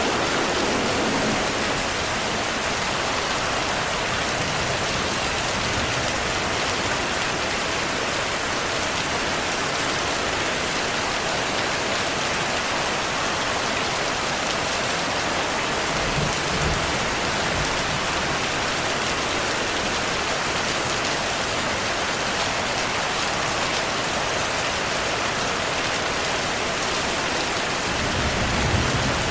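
Heavy rain falling steadily, with a dense, even hiss of drops, and two low rumbles of distant thunder, one about halfway through and one near the end.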